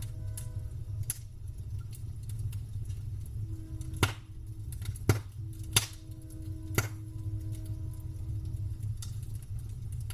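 Campfire burning with a low steady rumble, crackling, and four sharp wood pops between about four and seven seconds in.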